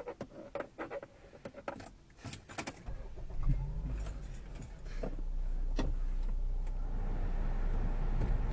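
Keys jangling and clicking for about three seconds, then a Honda car's engine starting and settling into a steady idle, heard from inside the cabin.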